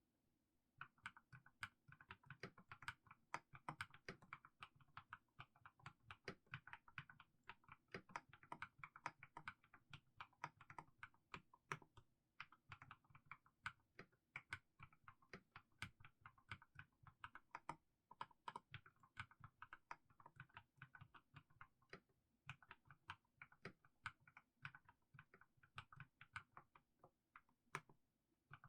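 Mechanical keyboard with fully lubricated Haimu Sea Salt switches being typed on slowly and steadily: a quiet stream of keystroke clacks that starts about a second in.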